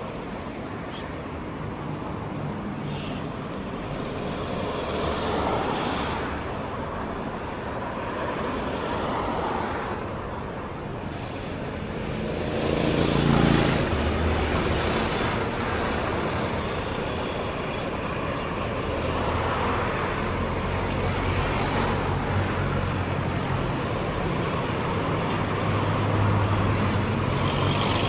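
Street traffic: cars and larger vehicles passing one after another. The loudest pass comes about halfway through, with its engine plainly heard as it goes by.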